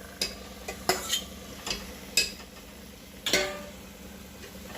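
A spoon stirring mutton pieces into fried masala in a pan: about five separate knocks and scrapes of the spoon against the pan, over a faint sizzle.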